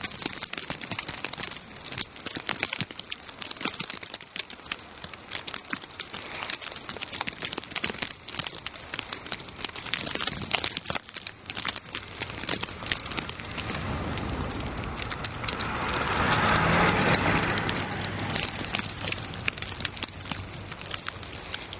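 Dense, irregular crackling patter of icy snowstorm precipitation striking surfaces. A louder swell of rushing noise builds from about two-thirds of the way in, peaks, and fades near the end.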